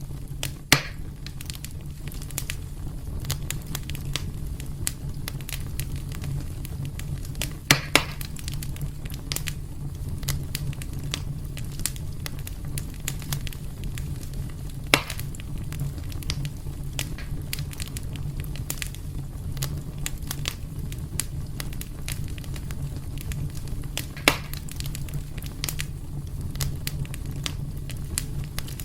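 Wood fire burning in a fireplace: a steady low rumble under constant small crackles, with a few louder sharp pops (about five) from the burning logs.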